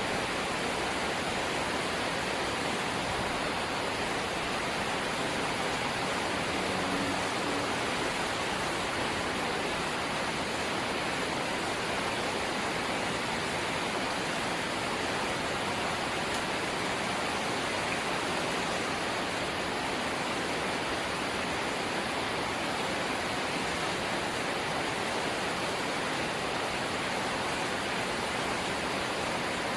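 Light rain falling steadily, an even hiss without distinct drops or changes.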